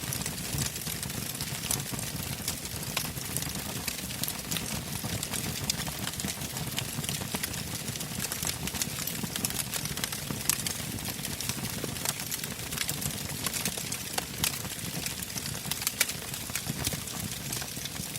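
Wood bonfire burning: constant crackling with frequent sharp pops over a steady low rush.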